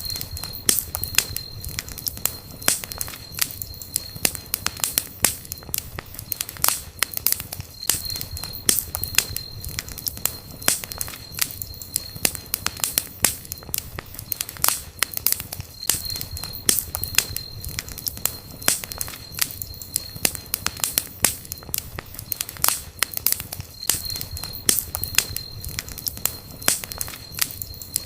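Wood campfire burning, with dense sharp crackles and pops, several a second, over a low steady rumble of the flames.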